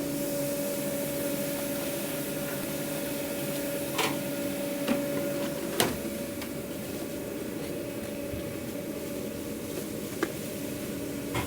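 Steady hum of food truck kitchen equipment, with a few sharp clicks and clatters of takeout packing and utensils.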